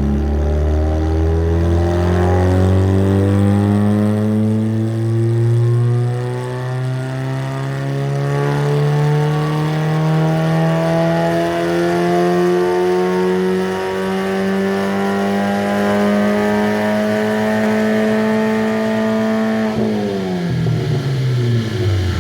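Hyundai HB20 1.6 four-cylinder engine on a chassis dynamometer, held at full throttle in one gear: the revs climb steadily for about twenty seconds, then the throttle closes and the revs fall away quickly near the end. This is the baseline power run on the stock exhaust manifold, with the second catalytic converter removed and a 2.5-inch rear pipe.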